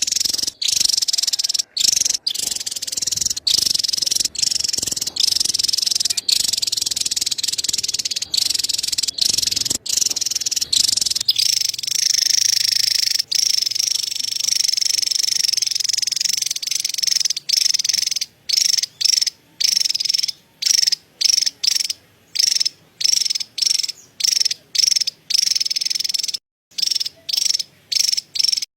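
Javan tesia's high-pitched, buzzy chattering call (cerecet), a dense run that goes on almost without a break for the first half, then comes in bursts about a second long with short silences between.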